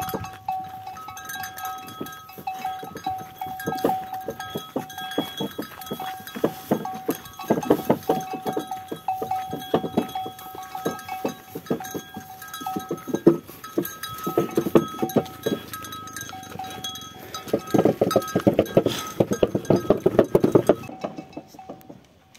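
Bullock cart on the move: the bulls' bells ring steadily over a dense clatter of knocks from hooves and the wooden cart, louder in bursts, dying down near the end.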